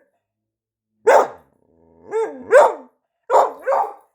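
A pet dog "talking": five short, pitched vocal calls that each rise and fall in pitch, one then a pair then another pair, in reply to its owner's question.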